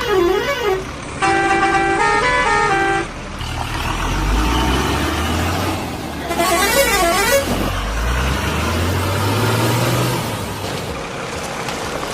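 Vehicle horns: a warbling, siren-like horn, then a short tune of stepped notes, over a low engine rumble that rises and falls, with another warbling horn about seven seconds in.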